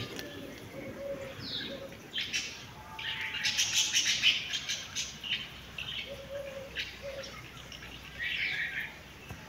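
Small birds chirping over and over, with a denser, louder flurry of chirps about three to four seconds in.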